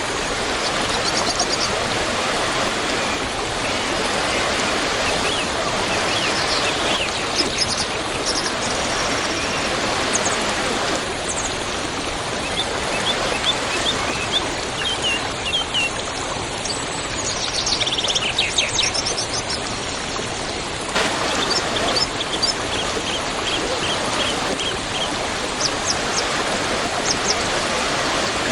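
A waterfall rushing steadily, with small birds chirping and trilling at intervals over it.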